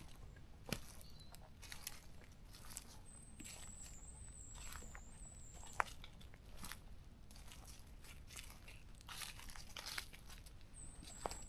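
Footsteps crunching on the forest floor at a walking pace, with a few sharper snaps. A thin, high steady whine comes in twice, the first for a couple of seconds.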